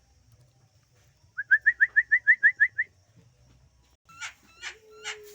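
Caged birds calling: a fast run of about ten short, rising whistled notes, then three harsh, scratchy calls near the end, with a low steady note joining just before the end.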